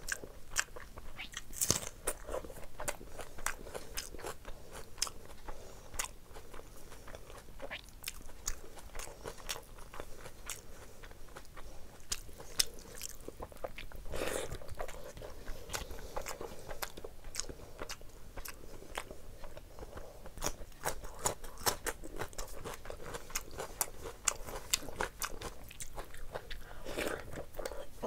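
Close-miked eating sounds of a person chewing mouthfuls of curry-soaked rice, with a dense run of wet clicks and smacks from the mouth and a larger mouthful being bitten into about halfway through. Fingers squelch through the wet rice between bites.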